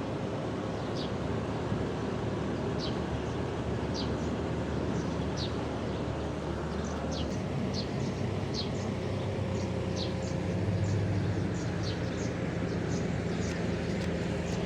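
A small bird chirping, short high notes about once a second that come faster in the second half, over a steady low mechanical hum.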